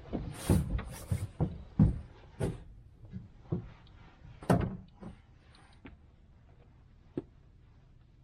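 Irregular knocks and thumps of gear being handled aboard a fishing boat, about half a dozen in the first five seconds and one more a couple of seconds later.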